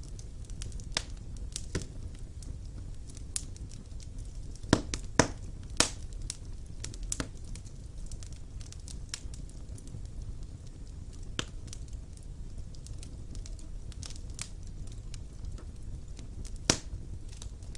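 Fire crackling in a classic stone fireplace: irregular sharp pops and snaps, a few louder ones about five seconds in and one near the end, over a steady low rumble of the flames.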